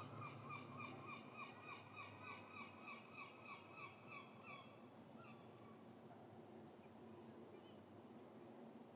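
A bird calling faintly: a quick series of short repeated notes, about three a second, that stops about halfway through, over quiet outdoor background hiss.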